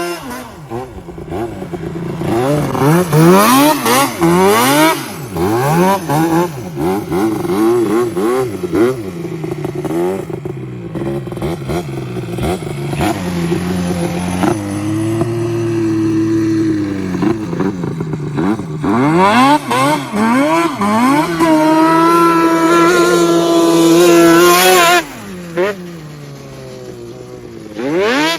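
Yamaha Banshee's 350 twin two-stroke engine through a MOTOFAST 2-into-1 exhaust, revving up and down over and over while being ridden. It holds a steady high rev for a few seconds late on, then eases off and goes quieter near the end.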